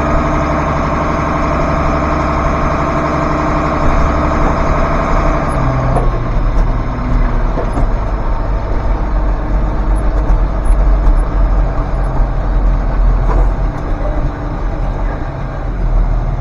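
Tractor's diesel engine running steadily at idle. A steady whine over it stops about six seconds in, leaving a deeper, rougher rumble.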